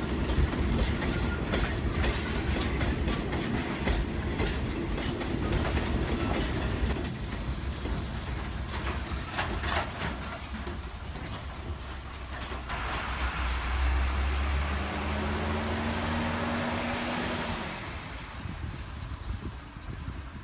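Chichibu Railway limestone freight train of hopper wagons moving slowly: low rumbling with repeated metallic clanks and clicks from the wagons. About 13 seconds in comes a loud hiss lasting some five seconds, with a hum that rises in pitch, and both stop together.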